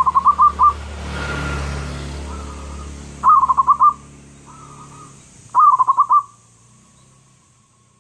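Zebra dove (perkutut) cooing: three song phrases a few seconds apart, each a quick run of about five rolling coos, with a soft lead-in note before the second and third.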